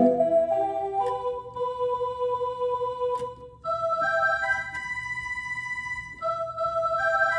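Slow instrumental music on an organ-toned keyboard, playing single sustained notes one after another.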